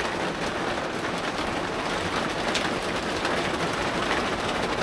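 Hard rain falling steadily on the barrel boat camper, heard from inside the cabin, with scattered individual drops ticking.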